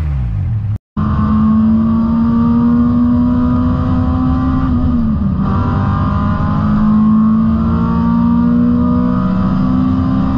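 Honda Civic EG5 engine and exhaust under hard acceleration. The engine note climbs steadily through a gear, falls at an upshift about five seconds in, then climbs through the next gear and falls again at another shift near the end. The sound cuts out for a split second just under a second in.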